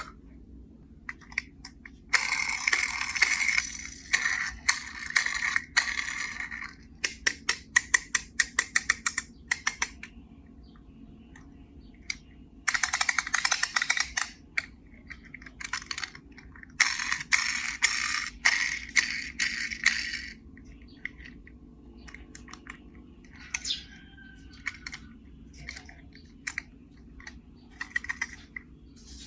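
Small plastic and die-cast toy cars and a plastic carry case being handled: rapid runs of clicks and rattles, with several bursts of rustling lasting a few seconds each.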